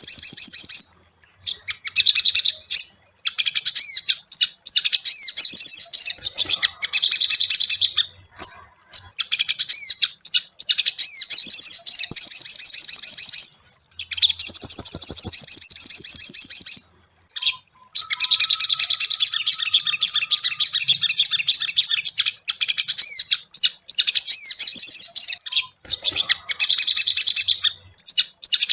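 Little spiderhunter (sogok ontong) calling in long, loud runs of rapid, high-pitched chirps, broken by brief pauses. This is a lure recording used to stimulate caged sogon to sing.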